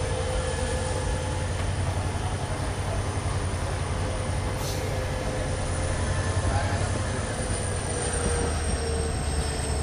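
Passenger train running, heard onboard: a steady rumble of wheels on the track with faint high whines that drop slightly in pitch about seven seconds in.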